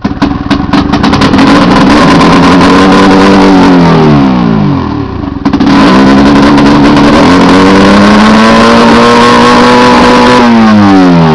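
Ski-Doo MXZ snowmobile's two-stroke engine running very loud through straight pipes, revved up twice: each time it holds high for a few seconds, then the revs fall back, about halfway through and again near the end.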